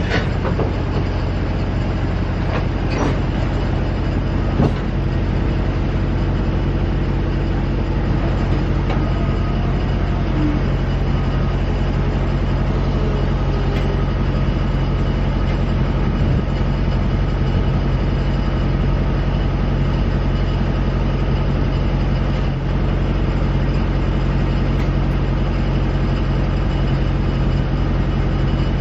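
Refrigerated boxcars of a freight train rolling past: a steady rumble and low drone of wheels on rail, with a few sharp clicks in the first five seconds.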